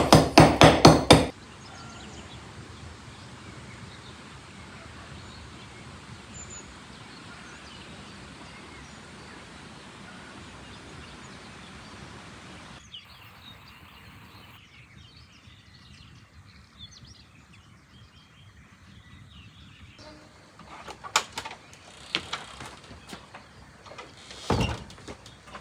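Rapid, even hammer strikes, about five a second, stop about a second in. Then comes faint, steady outdoor ambience with a single short bird chirp. Near the end there are a few scattered knocks.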